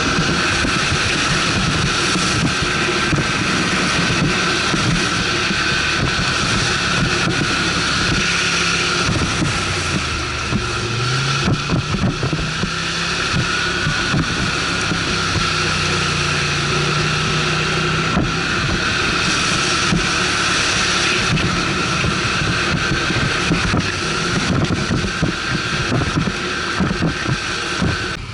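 ATV engine running while riding, with wind buffeting the microphone; the engine note rises about ten seconds in.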